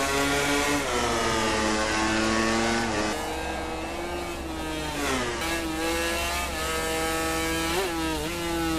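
A MotoGP racing motorcycle's 1000 cc four-stroke engine at high revs. Its pitch climbs and then drops several times as it changes gear, braking into corners and accelerating out, with the deepest fall about five seconds in.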